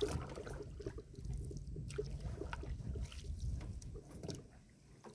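Canoe paddling: paddles dipping and water trickling and dripping, with scattered light clicks and knocks over a low rumble, easing off near the end.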